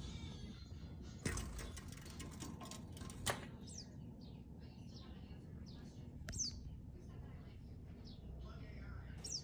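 Small birds chirping: many short high chirps and twice a quick falling whistle. There are a couple of sharp clicks in the first few seconds.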